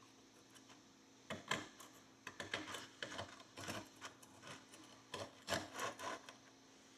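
Metal pick scraping and prying packed dirt out of an old pony horseshoe: a run of short, irregular scrapes starting about a second in and stopping shortly before the end.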